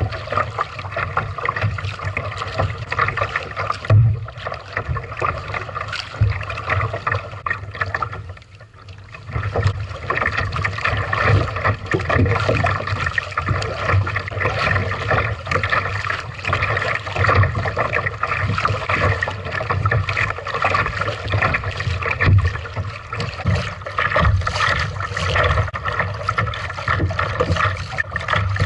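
Water splashing and trickling as a Lifetime Tamarack Pro kayak is paddled, with an uneven low rumble and thumps under it. The sound dips briefly about eight seconds in.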